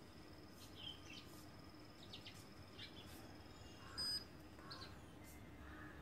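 Faint garden ambience: short scattered bird chirps over a steady high whine, with one brief sharp chirp about four seconds in the loudest sound.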